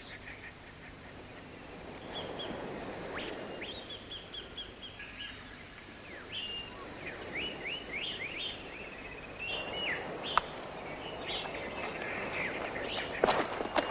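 Birds calling outdoors: many short, high chirps and whistles, some rising, over a steady background hiss. There is a single sharp tick about ten seconds in and a few knocks near the end.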